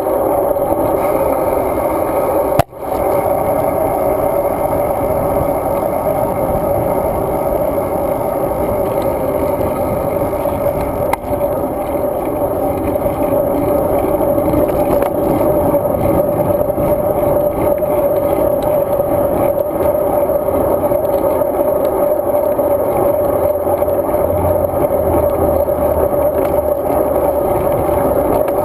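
Steady wind and riding noise from a road bike ride, picked up by a GoPro Hero 2 inside its housing. There is a brief drop-out about three seconds in.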